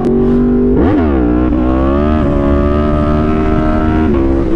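Motorcycle engine revved sharply about a second in, then pulling hard under acceleration, its pitch climbing and then holding steady before easing off slightly near the end.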